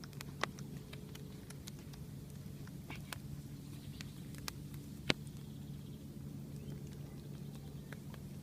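Campfire crackling: scattered sharp pops and clicks, a loud one about half a second in and the loudest about five seconds in, over a steady low hum.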